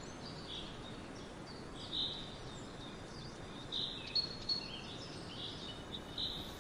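Small birds chirping, with short high calls coming every second or so, over a steady background hiss.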